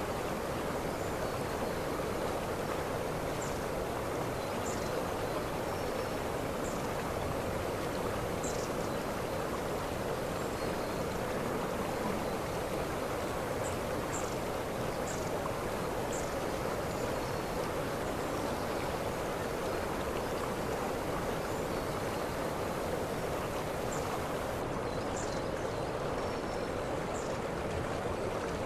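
Waterfall: steady, unbroken rushing of falling water, with brief high chirps now and then.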